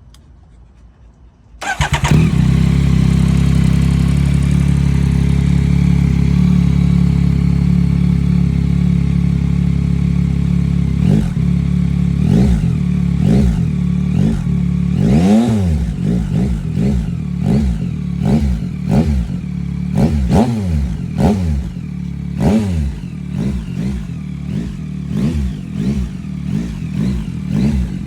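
2023 Yamaha XSR900's 890 cc inline-three engine through a Leo Vince LV1 Race exhaust with its dB killer cut 2 inches short. It starts up about two seconds in and idles steadily, then from about halfway through it is blipped through a dozen or so quick revs, each rising and dropping straight back to idle, the biggest about a third of the way through.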